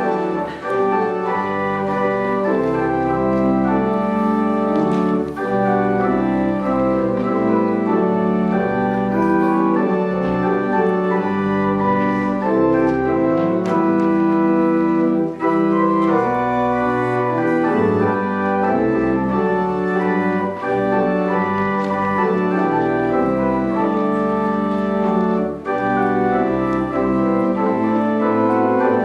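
Church organ playing a hymn in full, sustained chords, with short breaks between phrases.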